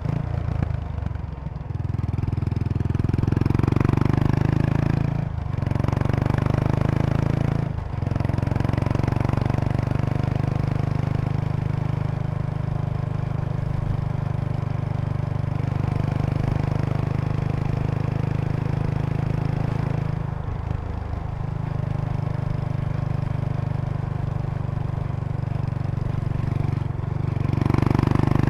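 Kawasaki Estrella RS's 250 cc air-cooled single-cylinder engine running under way through an aftermarket Yamato muffler. The exhaust note drops out briefly twice early on and again for about a second around two-thirds in, then picks up near the end. There is a light buzzing rattle from the seat bag's stiffener board resonating with the engine's vibration.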